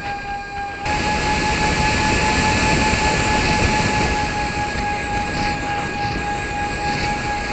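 FPV drone motors and propellers whining at a steady pitch over rushing air noise. The whine and rush get louder about a second in as the throttle comes up, then ease slightly towards the end.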